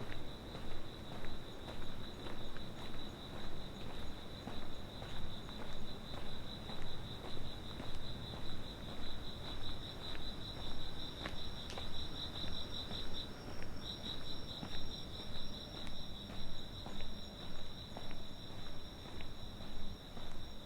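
Night insects trilling in one steady, high, fast-pulsing chorus that breaks off briefly about 13 seconds in, with a fainter higher trill joining about 12 seconds in. Under it, steady walking footsteps at about two steps a second.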